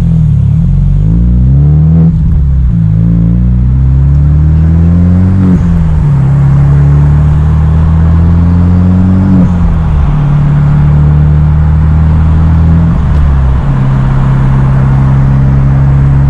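Hyundai Genesis Coupe 2.0T's turbocharged four-cylinder engine through a Tomei titanium single-exit exhaust, accelerating through the gears. The note climbs and drops at each of three upshifts, about two, five and a half and nine and a half seconds in, then settles into a steady cruise.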